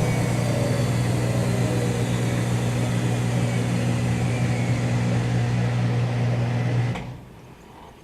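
Whirlpool Duet Sport front-load washer coming down from a spin: a steady hum under a slowly falling whine, cutting off about seven seconds in.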